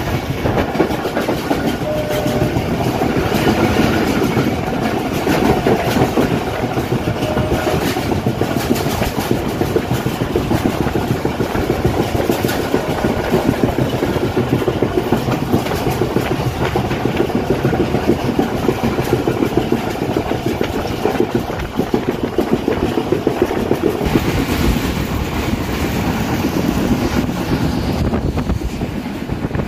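Moving train running on the rails, a steady rumble dotted with rapid wheel clicks and clatter, heard from an open doorway of the train.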